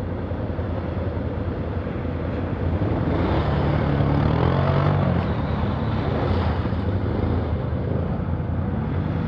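A vehicle engine running steadily under load with a constant noisy rush, revving up a little from about three seconds in and easing off again after about six seconds.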